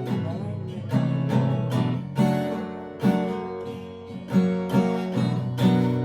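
Acoustic guitar strummed in a rhythmic chord pattern, each stroke ringing on, with no singing.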